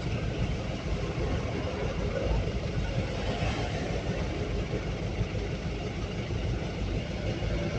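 Pickup truck engine running with steady road and traffic noise while driving slowly in traffic.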